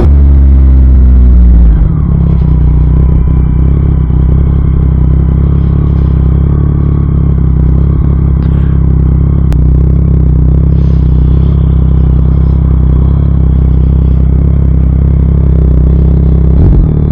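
2023 Yamaha MT-09's inline-three engine through an Akrapovic full exhaust, revs dropping over the first two seconds, then settling to a steady idle. The revs start to climb again at the very end.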